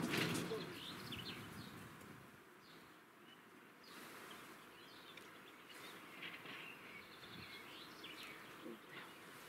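Small birds chirping and singing in short scattered phrases over a quiet outdoor background, with a low rumbling noise at the start that fades away over the first two seconds.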